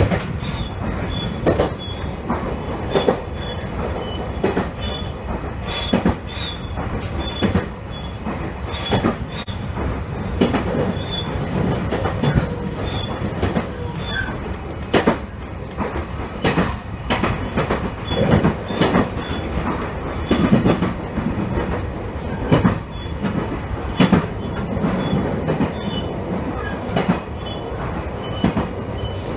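Train running on jointed rail, its wheels clicking over the rail joints at an uneven spacing, with a faint high-pitched squeal in short repeated dashes over the steady running noise.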